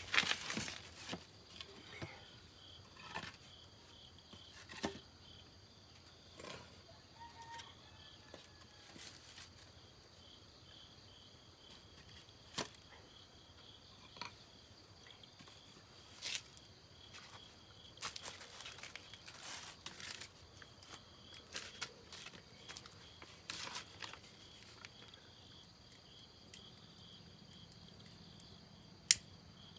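Steady cricket chirping throughout, with scattered sharp snaps and crackles from a wood fire being lit, one loud snap near the end.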